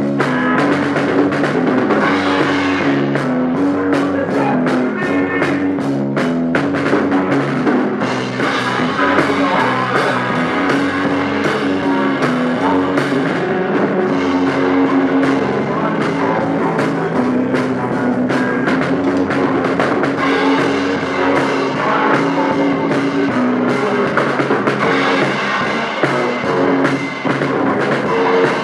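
Rock band playing an instrumental passage with drum kit, electric guitar and bass, recorded in rough, low-fidelity quality at a rehearsal.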